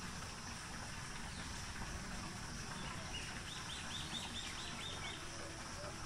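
Outdoor background with a steady high hum, and a small bird giving a quick run of about eight repeated high notes a little past the middle.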